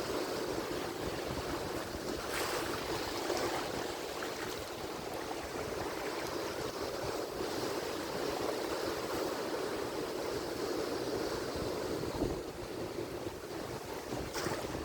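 Atlantic Ocean surf: waves washing and breaking on the shore in a steady rush, with a brief louder break about twelve seconds in. Some wind on the microphone.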